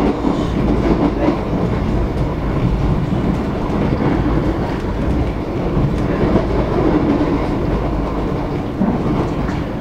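Alstom X'Trapolis electric train running at speed, heard from inside the front carriage: a steady rumble of the wheels on the rails.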